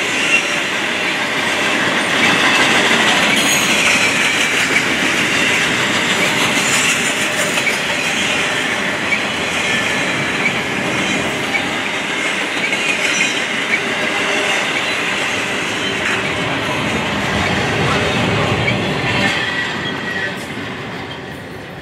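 Loaded double-stack intermodal container cars rolling past on steel rails: a steady rumble and rattle of wheels, with a thin squeal of wheel flanges and scattered clacks at the rail joints. It grows quieter over the last couple of seconds.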